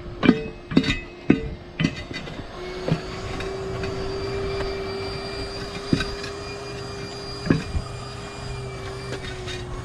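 Sharp metallic knocks of tire tools working a 19.5-inch truck tire on its rim: four in quick succession in the first two seconds, then a few more spread out later. A steady mechanical hum runs underneath.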